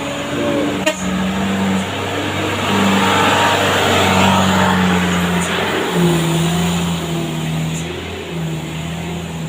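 Truck engine running under load over a loud, steady hiss; the engine's pitch steps down about six seconds in. A sharp click sounds about a second in.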